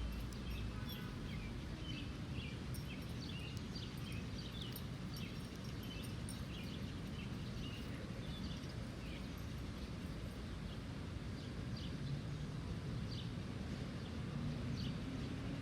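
Small birds chirping in many short, high calls over a steady low background rumble of outdoor noise.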